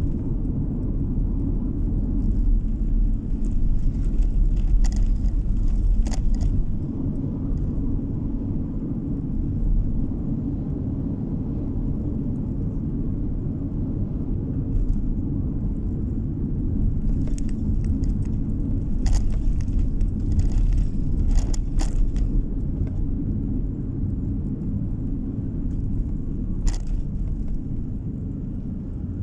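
Steady low rumble of road and engine noise inside a moving car, with a few brief clicks and rattles scattered through it.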